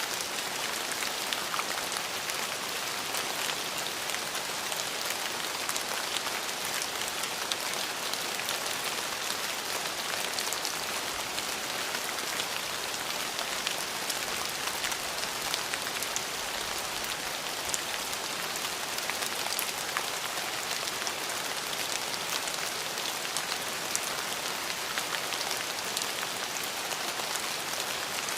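Steady rain falling on a surface: an even hiss dotted with many small drop ticks, constant throughout.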